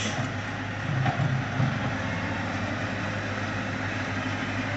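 Diesel engine of a Long King wheel loader running steadily as the machine finishes tipping its bucket and backs away from the pile.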